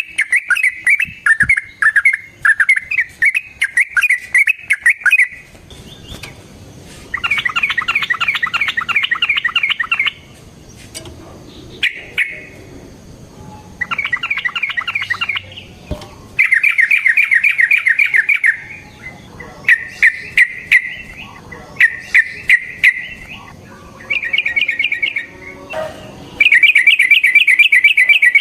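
Yellow-vented bulbul (trucukan) singing in fast, rattling, rolling phrases, one after another with short pauses between them, about ten phrases in all.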